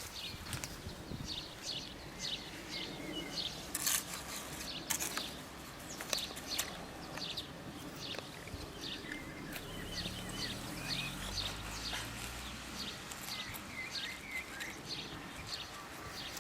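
Birds chirping and calling over and over, with two sharp clicks about four and five seconds in and a low hum around the middle.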